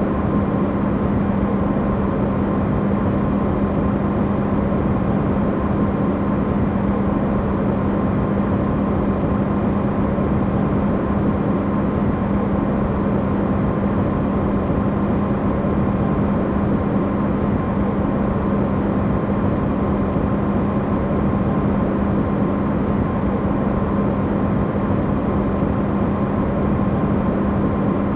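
Electrolux side-by-side refrigerator running, recorded close up and amplified: a steady, even rush of noise with a strong low hum and a faint higher whine.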